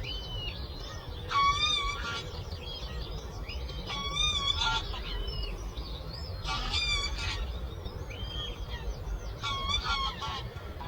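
Birds calling: a loud, harsh call repeats four times, roughly every two and a half to three seconds, with smaller birds chirping in between. A steady low rumble of breeze runs underneath.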